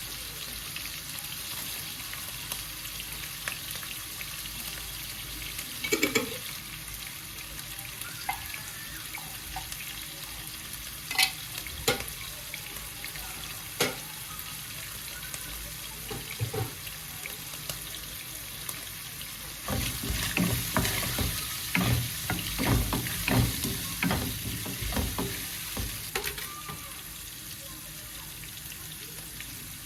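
Food sizzling in a frying pan with a steady hiss and a few sharp clinks. From about twenty seconds in comes a run of clattering and scraping as it is stirred with a utensil.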